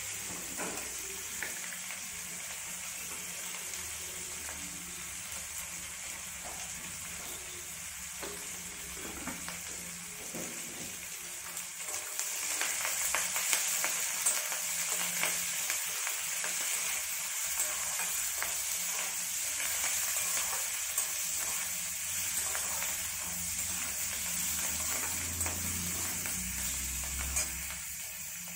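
Chopped vegetables sizzling in hot oil in a stainless steel wok on a gas burner, stirred with a spatula that scrapes and taps the pan. The sizzle gets louder about twelve seconds in.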